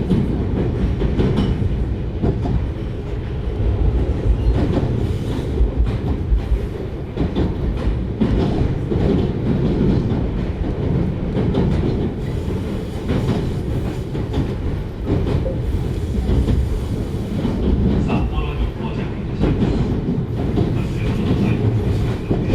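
JR 733 series electric multiple unit running, heard from inside the car: a steady rumble of wheels on rail with frequent short clicks from rail joints. A few faint thin tones come in higher up near the end.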